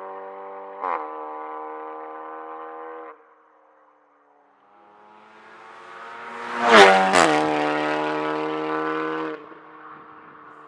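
Audi S3 8V's turbocharged 2.0-litre four-cylinder through an Armytrix valvetronic exhaust, in a tunnel: a steady engine drone with one sharp pop about a second in, cutting off at about three seconds. Then the car comes up and passes close, its pitch dropping as it goes by, with two loud exhaust cracks at the loudest point.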